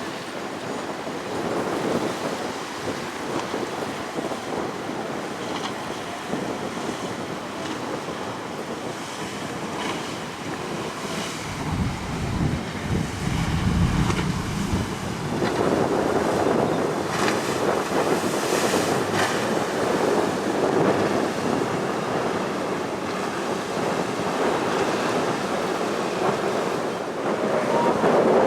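Strong wind buffeting the microphone over the wash of choppy waves, with a heavy low rumble of gusts about twelve seconds in. The water and wind grow louder about halfway through.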